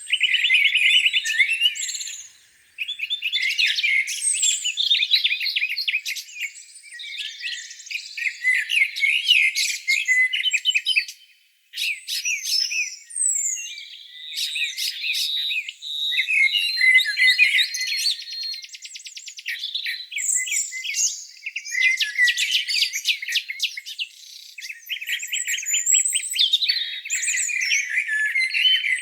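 Several songbirds singing over one another in a spring morning chorus: quick chirps, whistled phrases and a fast trill, with short breaks about two and eleven seconds in.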